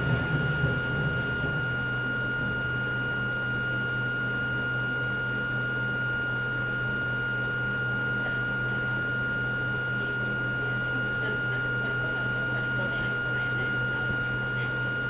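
Hakone Tozan Railway Moha 1 electric railcar standing still, its on-board equipment giving a steady hum with a constant high whine. Louder running noise dies away over the first second or two.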